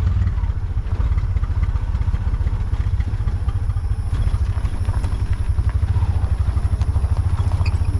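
Auto-rickshaw (tuk-tuk) engine running steadily with a fast low throb, heard from inside the passenger cab while it drives up the road.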